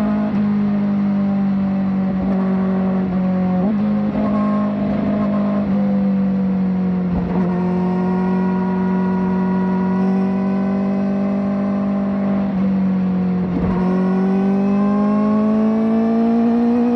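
Kawasaki ZX-4RR's 399 cc inline-four running hard through a slip-on exhaust, holding a fairly steady high note. The note breaks briefly three times, then climbs steadily in pitch near the end as the revs build.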